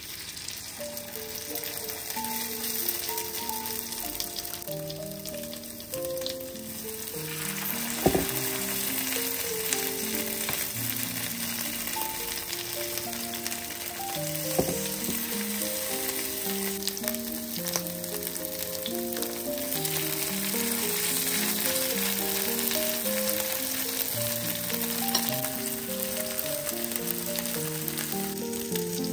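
Spoonfuls of chopped beef-liver batter sizzling in hot ghee in a nonstick frying pan, the sizzle building as more patties go in. There are a couple of sharp knocks, and soft background music of stepped notes plays throughout.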